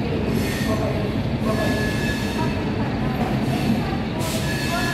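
Indian Railways passenger coaches rolling slowly past during shunting, a steady rumble of wheels on rail with thin high wheel squeals about a second and a half in and again near the end.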